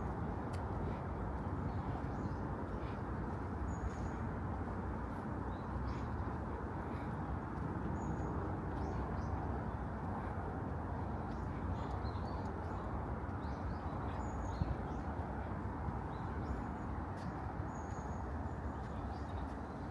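Steady hum of distant city traffic, with a bird repeating a short high call about every four seconds and other faint chirps.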